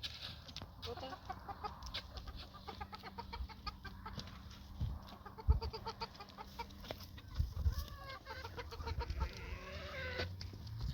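Chickens clucking, runs of short repeated notes, with a few dull thumps in the middle.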